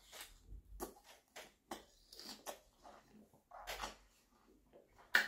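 Wet mouth sounds of a man chewing a mouthful of watermelon: soft, irregular clicks and smacks, with one sharper smack near the end.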